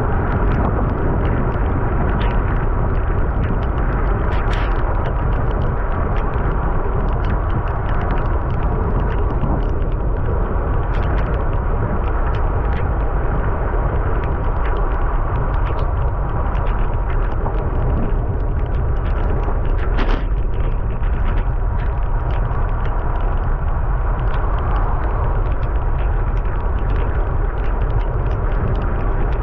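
Steady wind rumble on the microphone and tyre noise from a bicycle being ridden in the rain, with frequent small clicks and rattles.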